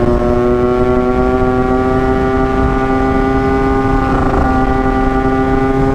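Two-stroke single-cylinder motorcycle engine, a Yamaha RX-King, running hard at steady high revs under way, its pitch creeping slowly up as it pulls, with low wind rumble underneath.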